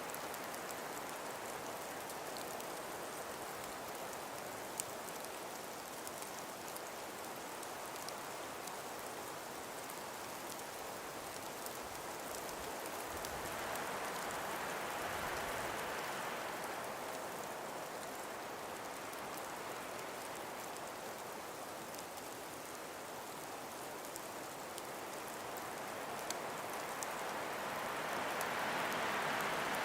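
A calm winter breeze blowing through an ice- and frost-covered forest: a steady rushing that swells about halfway through and again near the end, with faint scattered ticks.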